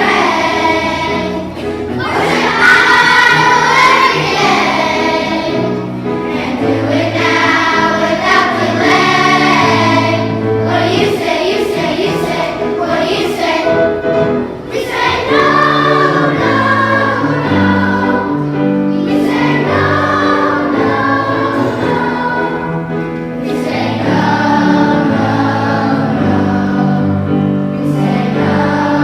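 A children's choir singing a song to an instrumental accompaniment with a stepping bass line.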